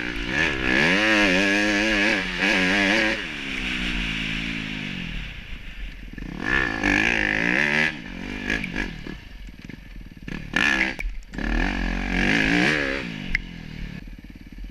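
Dirt bike engine revving hard, its pitch climbing and dropping again and again as the bike is ridden, with loud stretches early, in the middle and near the end.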